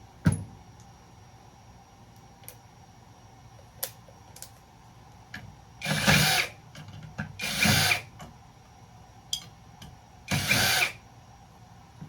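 Power drill/driver run in three short bursts of about a second each, working at the screws that hold the breaker box's bus bars. A sharp knock just after the start and a few light clicks of tool on metal.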